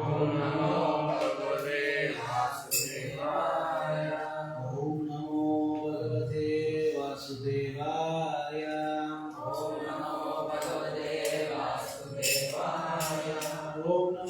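Devotional chanting: a voice intoning a mantra in long, held notes that glide from one pitch to the next.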